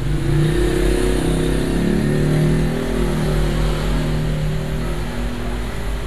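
An engine running with a shifting pitch, over a steady low hum.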